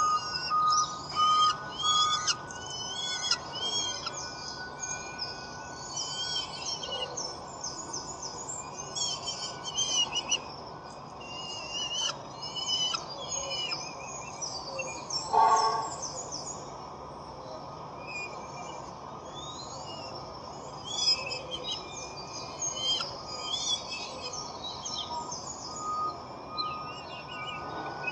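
Birds chirping and twittering: many short high calls overlapping throughout, with one louder, lower call about fifteen seconds in.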